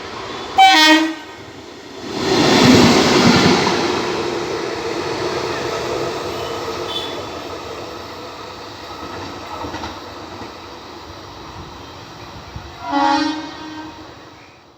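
A train passing, with two short horn blasts, one just under a second in and one near the end; the rumble of the train swells about two seconds in and slowly fades away.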